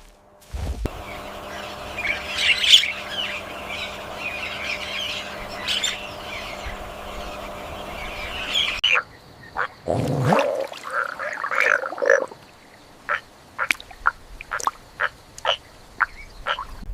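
Animal calls in two parts: a dense chorus of chattering calls for about eight seconds that cuts off suddenly, then a lower call followed by a run of short, sharp chirps, about two a second.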